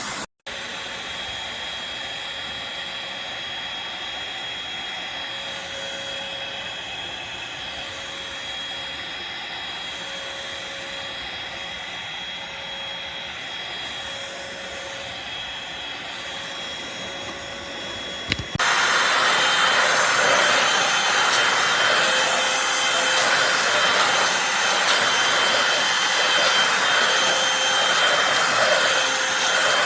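Eureka Blaze stick vacuum's motor running steadily, with a faint high whine over its airflow; about eighteen seconds in it jumps abruptly to a louder, hissier run.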